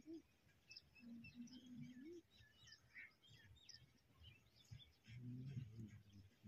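Faint outdoor ambience of small birds: many short chirps and twitters scattered throughout. A faint low pitched sound comes twice, once about a second in and again near the end.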